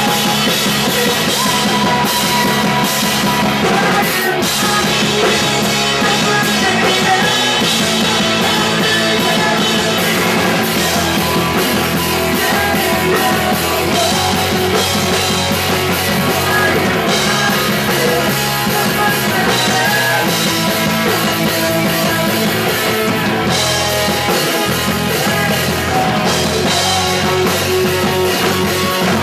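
Loud punk rock music with drum kit and guitars playing steadily throughout.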